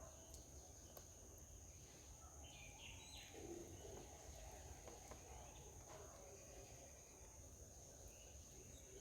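Near silence: faint outdoor ambience with a steady, thin high-pitched whine, and a few faint bird chirps about three seconds in.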